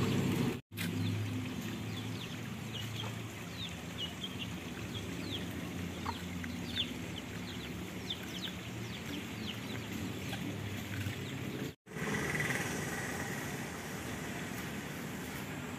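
Birds chirping: a run of short, high, downward-sliding chirps for several seconds, a few seconds in, over a low steady outdoor rumble. The sound drops out completely twice for an instant.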